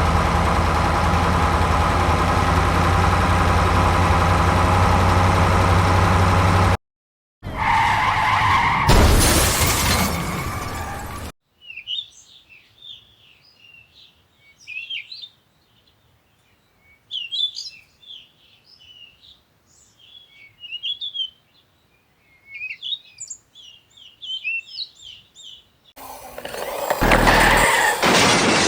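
A steady vehicle engine running loudly, cut off abruptly after about seven seconds, followed by a loud noisy burst. Then a long stretch of birds chirping, with loud vehicle noise returning near the end.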